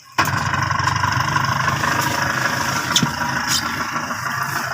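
A fishing boat's engine kicks in suddenly just after the start and runs steadily as the boat gets under way.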